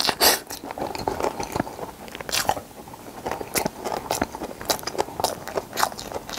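A person chewing a mouthful of braised stingray close to the microphone, with irregular wet clicks and crackles of the food in the mouth.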